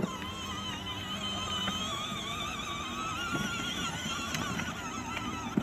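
Electronic sound from a ride-on toy police car's speaker: one steady, slightly warbling high tone held throughout, with a few light clicks and a sharp knock at the very end.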